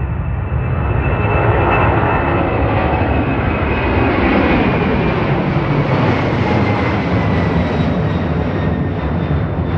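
Boeing 767-300ER twin-engine jet airliner passing by on departure: loud engine noise that swells over the first couple of seconds and holds, with a high whine drifting down in pitch.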